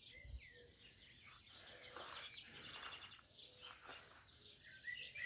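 Faint birds chirping in short calls, louder near the end.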